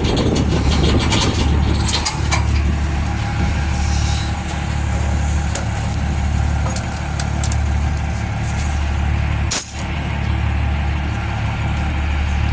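Engine idling steadily with a low, even hum, briefly dipping a little before the end.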